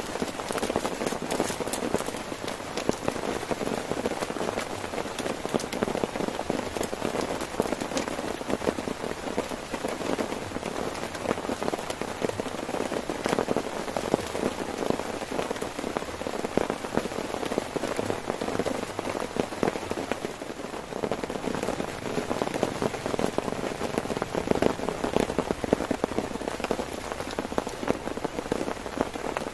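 Heavy rain drumming steadily on a tent, with countless sharp individual drop strikes over a dense, even wash of rain.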